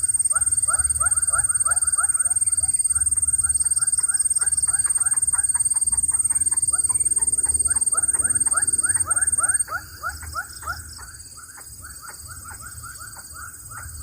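Young bird-of-prey chicks calling continuously in short, rapid, downward-sliding chirps, about four or five a second, typical begging calls. A steady high-pitched whine runs alongside and cuts off about two-thirds of the way through.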